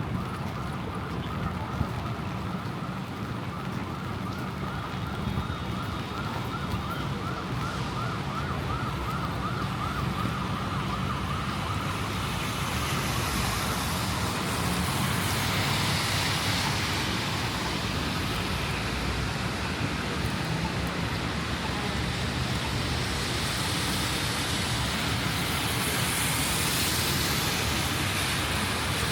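A siren warbling rapidly over steady city traffic and the hiss of rain; the warble fades out about ten seconds in, and the hiss of rain and wet tyres on the street grows louder.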